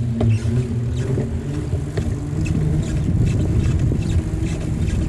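Wind rumbling on the microphone and rolling noise while riding a bicycle at speed, with a low steady hum for the first few seconds and scattered light ticks.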